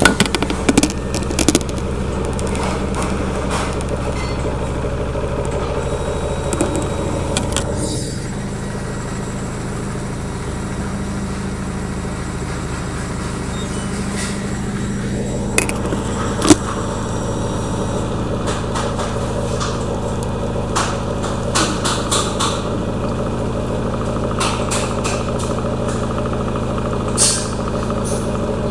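LG washing machine on its final spin: a steady motor hum with several held tones and light scattered clicks.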